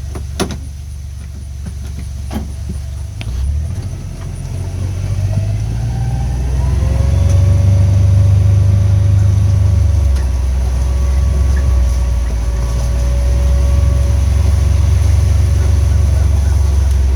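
Vehicle engine running with a low steady rumble while driving, with two sharp knocks in the first few seconds. About six seconds in it gets louder and a whine rises in pitch and then holds steady as the engine works harder.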